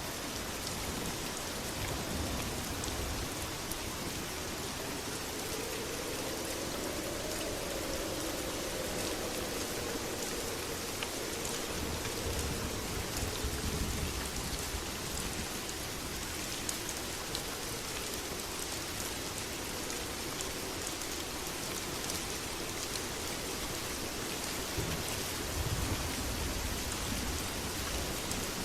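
Steady heavy rain, an even hiss of drops on surfaces, with a low rumble near the end.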